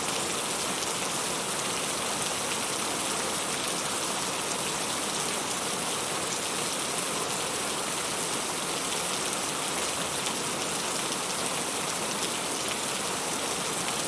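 Heavy rain falling steadily, a dense even hiss of drops pattering on a surface.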